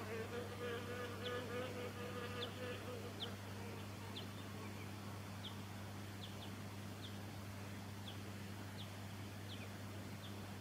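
A flying insect buzzing close by for the first four seconds or so, then fading away. Short high chirps come every second or so, over a steady low hum.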